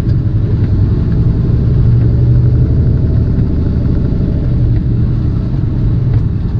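Tractor-trailer's diesel engine running steadily under way, with road noise, heard from inside the cab as a continuous low rumble.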